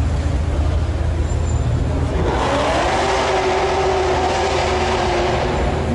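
A car engine running over a steady low rumble; about two seconds in, its pitch rises a little and holds, as a car revs or drives by.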